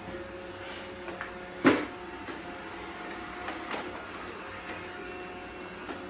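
Plastic knock as a robot vacuum is set down onto a stack of robot vacuums, with a few fainter clicks and bumps, over a steady low mechanical hum.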